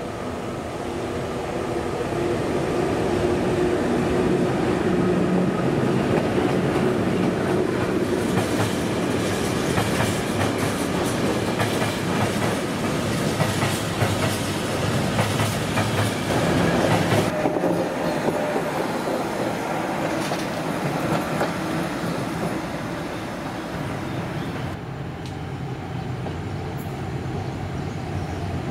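A train passing close by, its wheels clattering over the rail joints. It builds over the first few seconds, is loudest in the middle, and drops off suddenly about seventeen seconds in.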